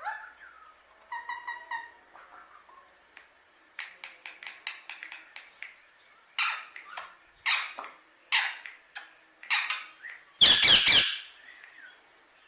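Alexandrine parakeet giving a series of short harsh squawks and chirps, a few of them clearer and more tuneful, with the loudest, a harsh burst lasting about half a second, near the end.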